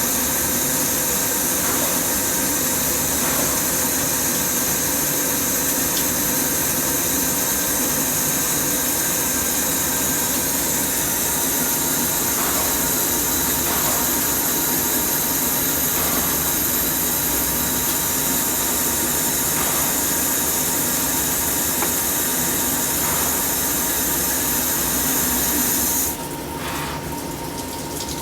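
Metal-cutting machine tools running steadily while machining parts, a constant mechanical hum with a few held tones and a high hiss. The noise drops suddenly near the end.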